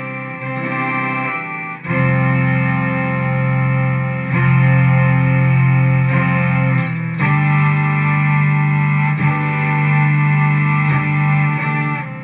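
Guitar played through a BOSS SY-200 synthesizer pedal, giving a polyphonic synth tone: sustained chords, a new one every two to three seconds.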